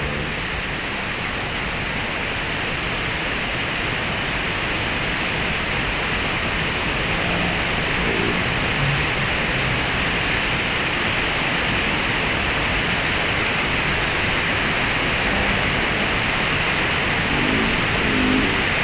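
Waterfall's steady rush of falling water, a dense even hiss with most of its weight in the upper middle, growing slightly louder over the stretch.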